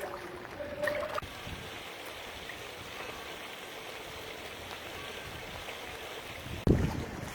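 Floodwater flowing with a steady rush, with a loud low thump near the end.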